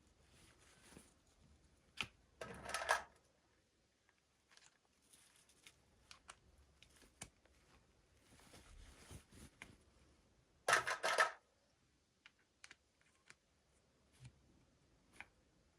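Hands handling toy packaging and small plastic miniature pieces: soft rustling and scattered light clicks, with two short louder crinkling bursts, one a few seconds in and one about two-thirds of the way through.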